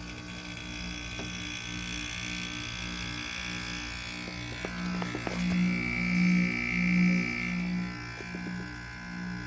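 Window air conditioner's Rechi compressor running with a pulsing buzzing hum, about two throbs a second, swelling louder in the middle and easing near the end. The noise is the typical Rechi lubrication issue.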